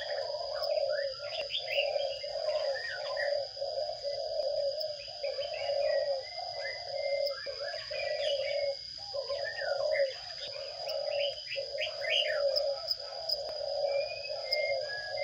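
Sparrows chirping in quick, repeated short calls, over a low sound that pulses on and off and a steady high-pitched tone.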